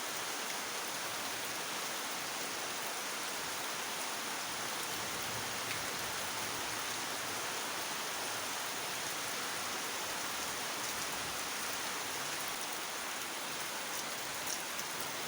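Heavy rain falling steadily, an even hiss of rain on surfaces, with a few faint drop ticks near the end.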